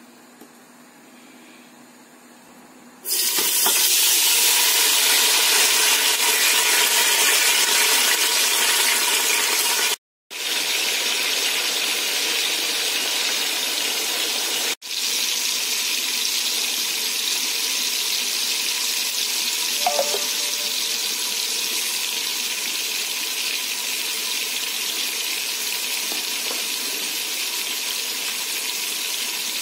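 Chopped tomatoes hitting hot oil in a pot: a loud sizzle starts suddenly about three seconds in and carries on steadily as they fry, cut off briefly twice.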